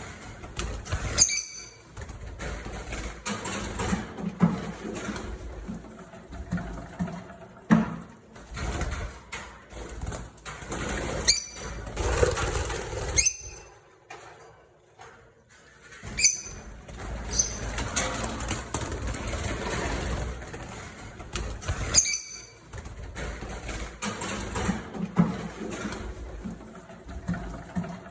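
Lovebirds chirping: short, sharp, high calls with quick upward sweeps every few seconds, over a constant low rumble.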